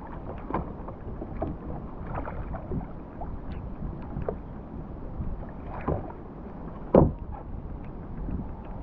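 Sounds aboard a fishing kayak on the water: a steady low rumble of wind and water with scattered small knocks, one sharp knock about seven seconds in.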